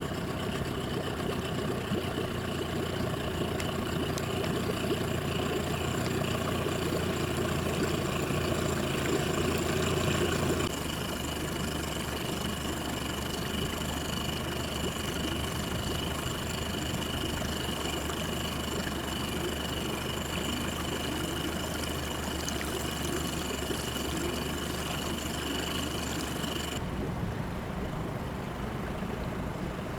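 Steady low drone of a cargo ship's diesel engine running. The sound changes abruptly about ten seconds in and again near the end.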